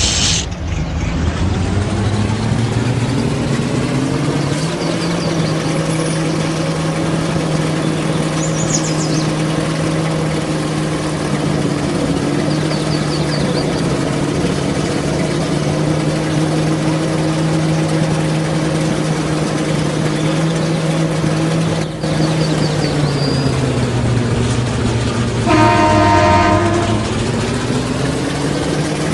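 Truck engine running under load, its pitch rising in the first few seconds, holding steady, then dropping as it eases off. There is a short hiss at the very start and a horn blast of about a second and a half near the end.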